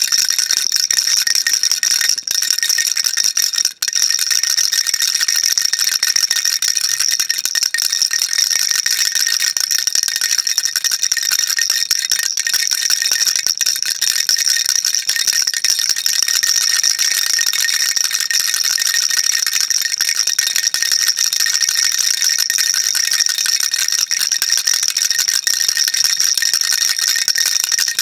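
Baby rattle shaken without pause, a dense, steady rattling, with a brief break about four seconds in.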